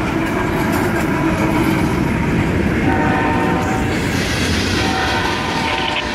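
Diesel freight locomotives passing close by, engines running under load, with wheels clacking over the rail joints as the last units give way to freight cars. A locomotive horn chord sounds in the distance, strongest at the start and again from about three seconds in.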